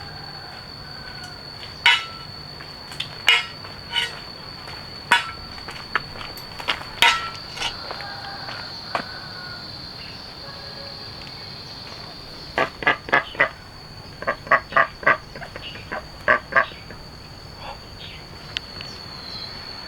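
Short, sharp croaking animal calls, single at first, then in quick runs of four or five, over a steady high-pitched whine.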